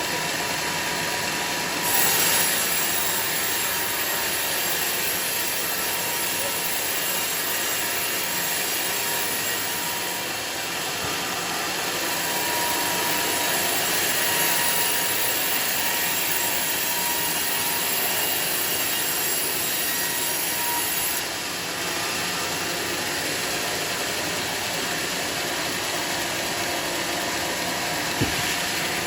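Sawmill saw cutting a teak log, a steady mechanical running noise with a high hissing cut that comes in about two seconds in and drops away about two-thirds of the way through. A single sharp knock near the end.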